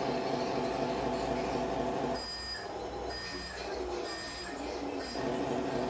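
Radio-controlled Scania model truck running with a steady mechanical hum, which stops a little over two seconds in and starts again about three seconds later. A few faint high beeps sound during the pause.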